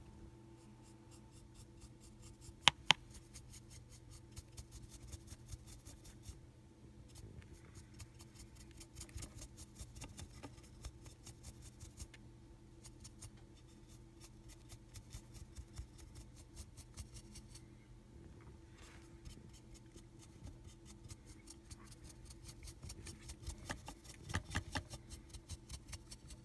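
A paintbrush scrubbing quickly back and forth over a cast Hydrocal plaster wall in dry-brush strokes, a dense run of light scratchy rasps. Two sharp clicks close together about three seconds in are the loudest sounds.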